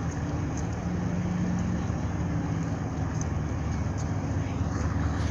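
Steady low engine hum over outdoor background noise.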